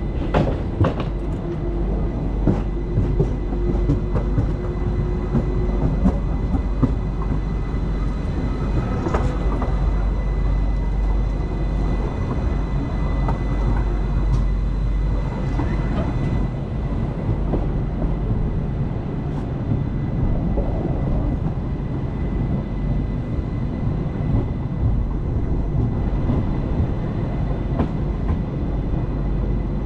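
ÖBB class 4024 Talent electric multiple unit running slowly with a steady rumble from wheels on rail, with sharp clicks as the wheels pass over points and joints, most in the first few seconds. A faint steady high tone runs underneath.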